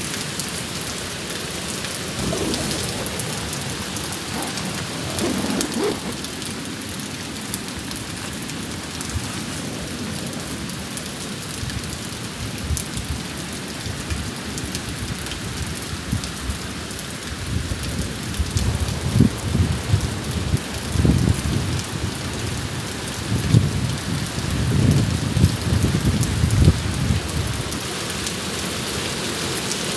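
Steady rain falling, an even dense hiss of drops. Deep low rumbles swell and fade through the second half and are the loudest sound there.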